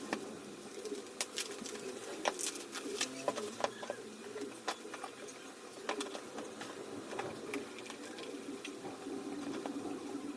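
Low cooing bird calls over scattered sharp clicks and light taps.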